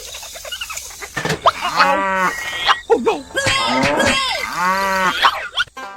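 Cattle mooing: long drawn-out moos that rise and fall in pitch, one about a second and a half in and a longer one near the middle to the end.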